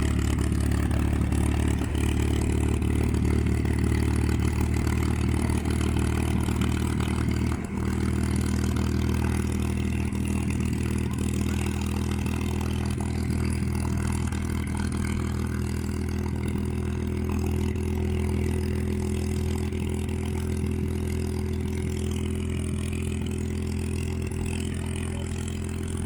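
P-51 Mustang's V12 piston engine running steadily at low power, a deep, even engine note.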